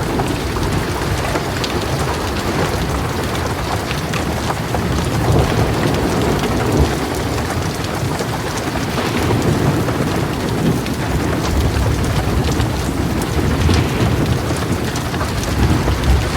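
Heavy rain pouring steadily, with low thunder rumbling underneath that swells a few times.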